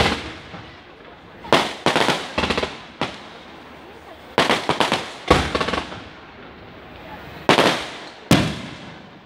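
Aerial fireworks going off: a string of about ten bangs and crackles, several close together between one and three seconds in, and single sharp bangs about five and eight seconds in, each dying away.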